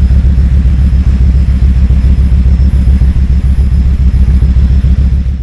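Kawasaki Vulcan 2000's big V-twin engine running steadily, its exhaust giving a deep, even pulse with no revving.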